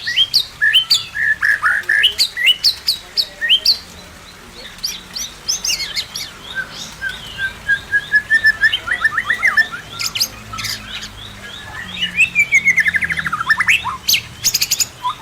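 White-rumped shama singing a varied, loud song of clear whistled notes and quick phrases, with rapid trills, one sliding downward near the end, and sharp clicking notes mixed in.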